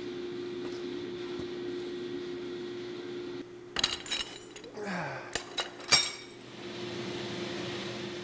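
Steady fan hum, which cuts out about three and a half seconds in. It is followed by a string of sharp metallic clinks and clanks from steel cable and tools being handled, the loudest about six seconds in, and then a rising hiss.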